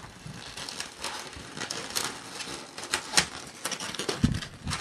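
Latex twisting balloon being folded and twisted by hand: irregular rubbery crackles and clicks as it rubs and twists, with a dull thump about four seconds in.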